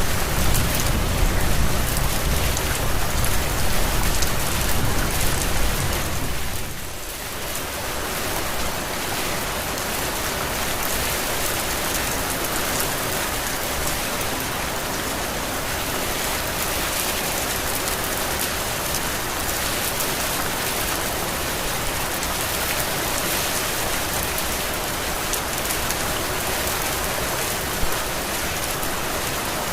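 Heavy, steady rain, with a low rumble underneath for the first six seconds or so that drops away, leaving the even hiss of the rain.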